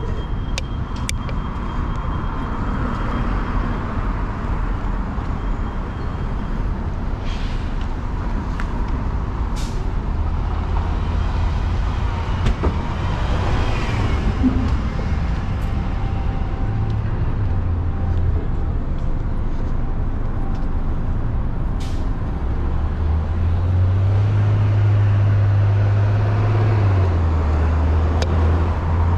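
Downtown street traffic: a low, steady engine rumble from a heavy vehicle nearby, its pitch stepping up and down in the second half, with a swell of passing-vehicle noise about halfway through and a few sharp clicks.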